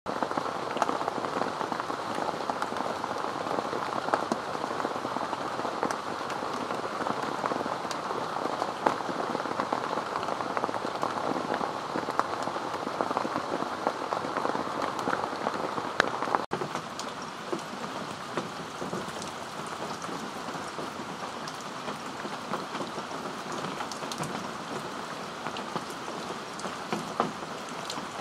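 Heavy rain falling steadily on garden foliage, a dense hiss speckled with sharper individual drop hits. About halfway through it becomes slightly softer.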